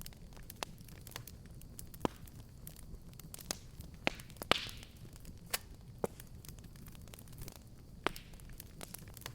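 Wood fire crackling and popping: irregular sharp snaps over a low steady rumble of burning, with the loudest pop about halfway through, followed by a brief hiss.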